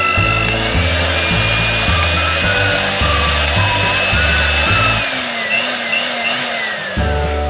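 A Philips HR2115 blender's motor running steadily with its base opened, switched on from the five-speed switch panel, under background music with a whistled melody and a bass line.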